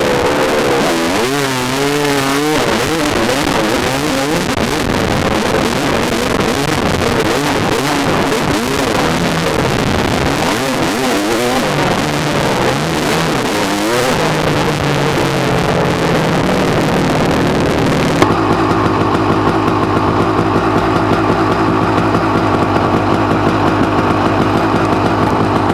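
Yamaha dirt bike engine revving up and down as the bike is ridden, its pitch rising and falling with the throttle. About 18 seconds in it changes suddenly to a steady, even note, like the bike settling to idle.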